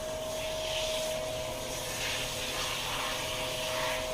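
Water spraying from a handheld shower head onto a dog's wet coat, a steady hiss that swishes as the spray moves, over a constant steady hum.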